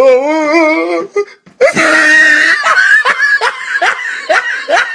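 A person laughing: a wavering laugh, a short break, then a loud shrill burst followed by a run of quick laughs, about three a second.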